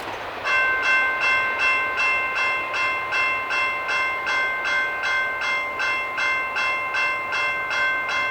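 Railroad grade-crossing bell ringing steadily, about two strokes a second, starting about half a second in and still going at the end.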